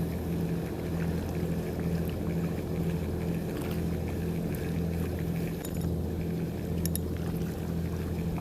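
An engine running steadily: a deep, low drone with a slight regular pulse. There are a couple of faint sharp ticks about two-thirds of the way in.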